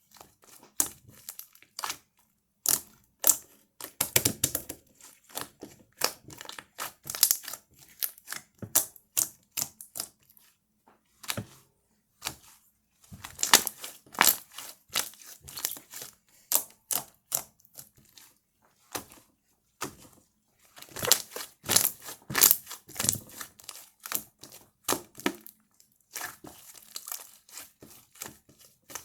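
Slime topped with soft air-dry clay being squished, pressed and stretched, giving irregular clusters of sharp crackles and clicks with short pauses between handfuls.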